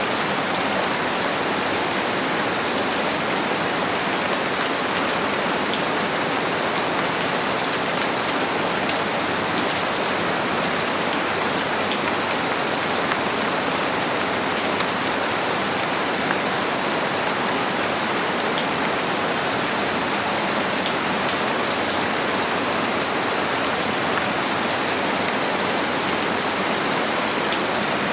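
Steady, heavy rain falling on surfaces, a dense even hiss with scattered sharper drop ticks.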